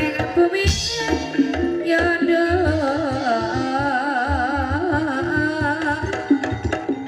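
Banyumasan gamelan music accompanying an ebeg trance dance: a singer's held, wavering vibrato notes over a steady pattern of hand-drum strokes.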